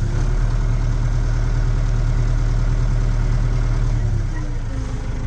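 Case 844 XL Plus tractor's diesel engine running steadily, its revs easing down to a lower speed about four seconds in.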